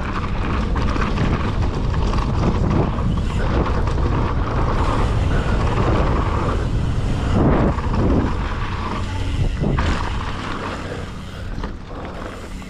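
Wind rushing over the microphone and tyres rolling on a dirt trail as a mountain bike is ridden fast down a jump line, with louder rough surges about seven and a half and ten seconds in.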